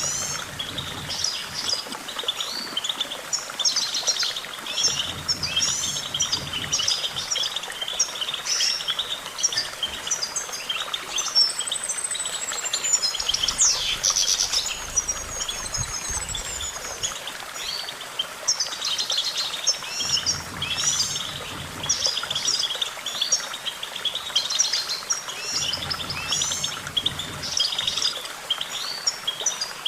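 European goldfinch singing: a continuous, fast twittering song of rapid chirps and trills, with a longer gliding high note about halfway through.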